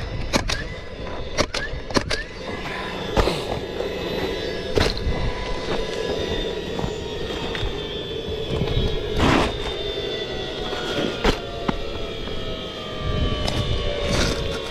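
Nailer driving nails into ridge cap shingles: about nine sharp shots spaced irregularly, over a steady mechanical drone with slowly falling tones.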